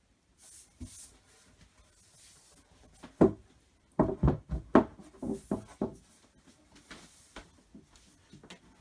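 Wooden flat-pack cupboard parts being handled: a single knock a little after three seconds in, then a quick run of sharp wooden knocks and clatters, with light rubbing and rustling between.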